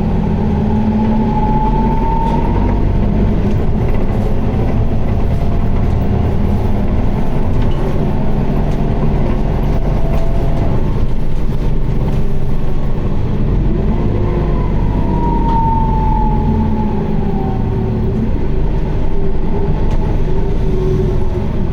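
Isuzu Erga (QDG-LV290N1) city bus under way, heard from on board: a steady diesel drone and rumble with the automatic held in fourth gear in POWER mode. A whine over it rises in pitch in the first few seconds and falls away again around fifteen seconds in. This bus is known for an abnormal noise and strong vibration.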